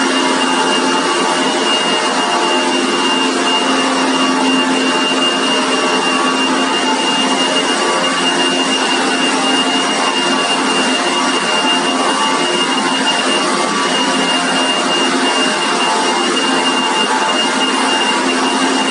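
Motorised manure-removal sweeper machine running steadily, a loud even mechanical noise with a constant high-pitched whine.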